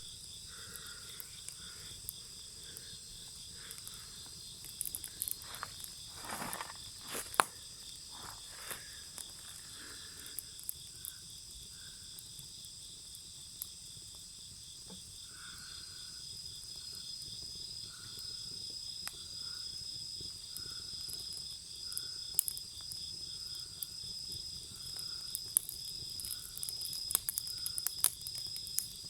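Wood bonfire crackling with scattered sharp pops, over the steady high chirping of crickets and other insects.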